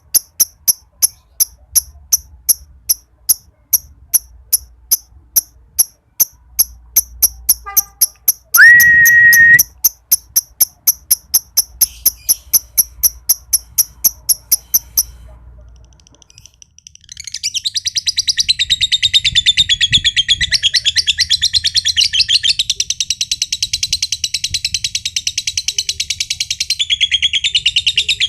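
Green (josan) lovebird: first a long run of sharp high ticks, about three a second, broken near 9 s by a short loud whistle-like note; then from about 17 s a long, fast, unbroken chattering trill, the 'ngekek' song of a male lovebird in breeding condition.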